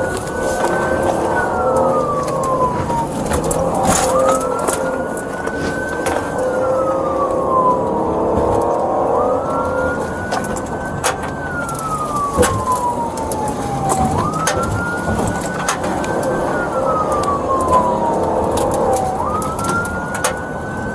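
Police car siren on a wail, rising quickly and falling slowly about once every five seconds, over steady vehicle and road noise with scattered clicks.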